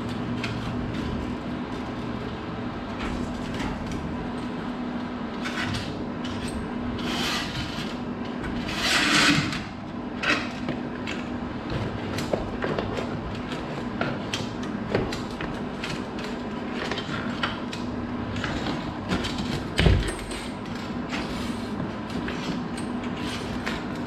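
Scattered metal clicks and rattles of a stiff steel garage door cable being handled and wound onto its cable drum, with a longer scraping rush about nine seconds in and a heavy thump near twenty seconds, over a steady low hum.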